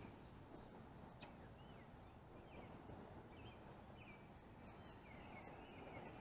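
Near silence with faint bird calls: scattered short chirps and a couple of thin, high whistles, with one faint tick about a second in.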